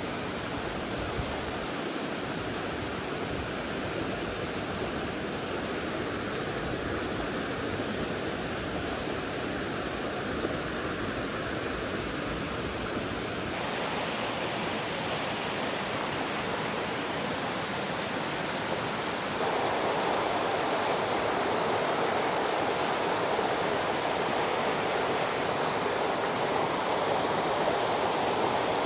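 River water rushing, a steady even noise. It shifts abruptly about halfway through and again about two-thirds through, and is louder from there on.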